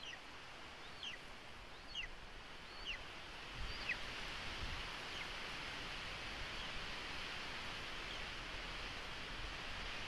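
Thin, high bird calls, each sliding downward, repeated about once a second and growing fainter after the first four or five, over a steady outdoor hiss.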